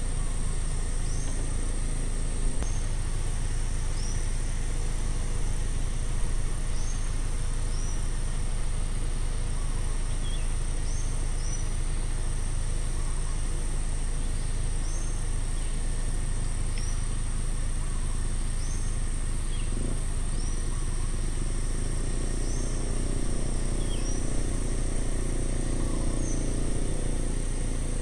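Outdoor ambience with a steady high insect drone and a bird repeating a short high call every second or two, over a steady low rumble.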